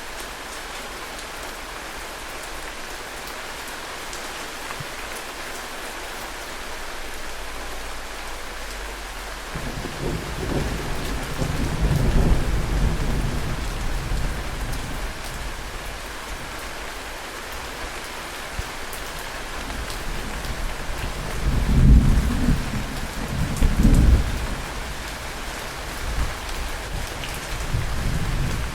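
Heavy rain falling steadily with an even hiss. About a third of the way in, rolling thunder rumbles in low and keeps returning, with its loudest peals a little past two-thirds.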